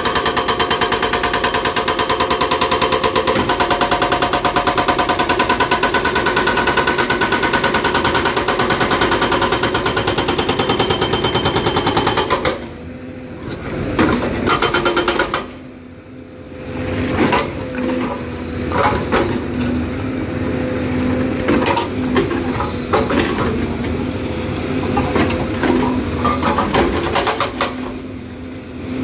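Excavator-mounted hydraulic breaker hammering very hard rock in rapid, even blows, stopping about twelve seconds in. After that the excavator's engine and hydraulics run steadily, with scattered knocks and clanks.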